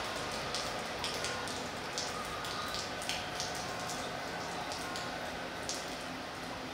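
Steady rain falling, with single drops striking close by several times a second.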